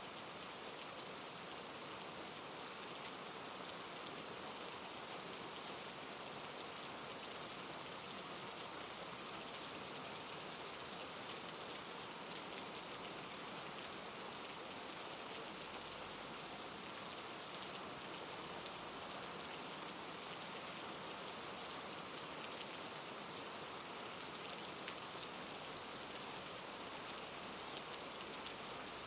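Steady soft rainfall, an even hiss with faint scattered drop ticks.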